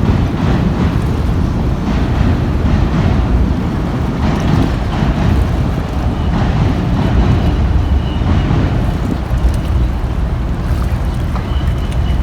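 Wind buffeting the microphone: a loud, low, rumbling noise with no clear rhythm.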